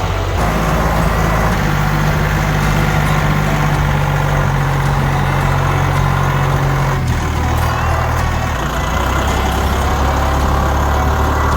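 Massey Ferguson tractor engine running steadily. Its speed steps up in the first couple of seconds and drops about seven seconds in.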